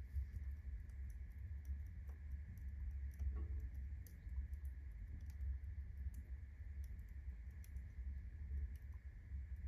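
Wood fire burning in a fireplace while the fire is still building up: scattered sharp crackles over a low steady rumble.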